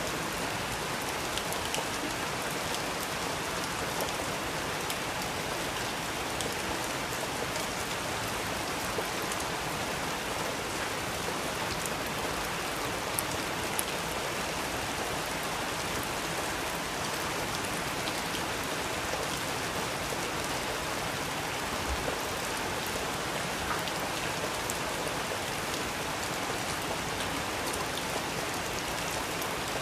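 Steady rain: an even hiss of rainfall with scattered individual drop ticks.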